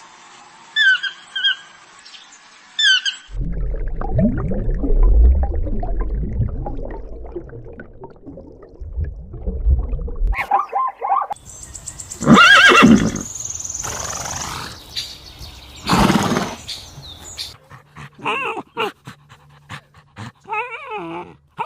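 A run of different animal calls spliced one after another: short repeated chirps, then a long low rumbling stretch, then loud calls that rise and fall in pitch, and shorter calls near the end.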